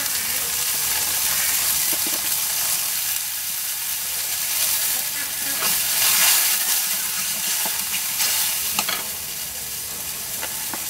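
Food sizzling steadily in hot oil in a metal pan, stirred with a steel spatula that scrapes and clicks against the pan a few times.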